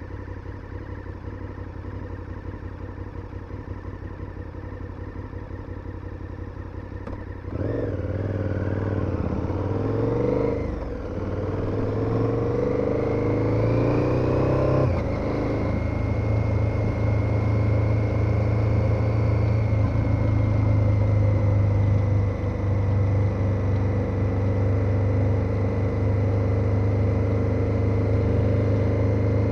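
KTM 1290 Super Adventure's V-twin engine ticking over at low revs, then opened up about seven seconds in. It revs rising through one gear, shifts with a short dip, and pulls up through the next gear before settling into a steady cruise.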